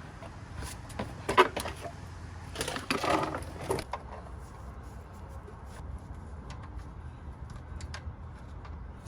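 Scattered light clicks and knocks of hand tools being handled, over a low steady hum, with two louder clattering moments, briefly about a second and a half in and for about a second around three seconds in.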